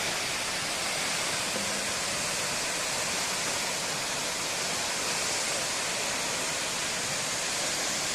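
Waterfall: a steady, even rush of falling water, heard as its own sound without music.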